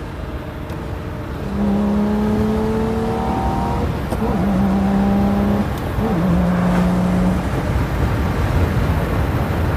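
Lamborghini Murciélago LP640 Roadster's V12 engine pulling with the top down, heard from the driver's seat with wind rumble underneath. Its steady note rises slightly, then breaks briefly twice, about four and six seconds in, and comes back a little lower each time.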